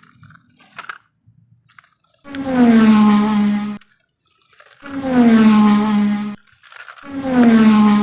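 A recorded sound effect played three times in a row: the same loud, low, buzzy tone, about a second and a half long, each time dropping slightly in pitch.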